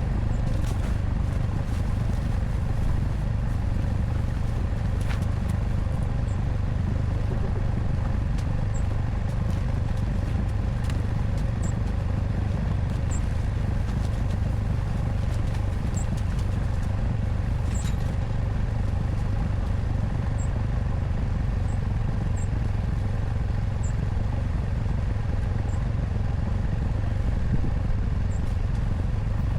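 ATV engine running steadily under load with no change in pace.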